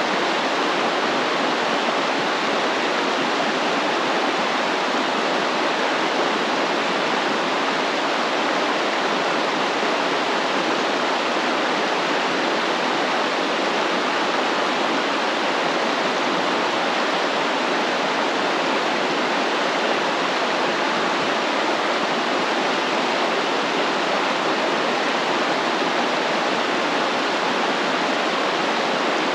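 Stream water flowing steadily, an even rushing with no breaks or changes.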